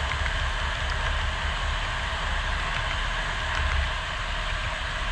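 HO scale model train running on the layout: a steady low rumble with a few faint clicks.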